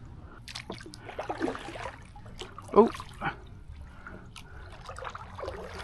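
Canoe paddle strokes: water splashing and trickling off the blade, with a few light knocks.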